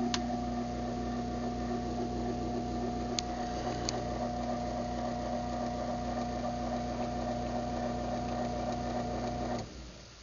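Craftsman 1/2 hp garage door opener motor running through a closing cycle, a steady hum with a few light clicks, stopping abruptly about nine and a half seconds in when the travel ends.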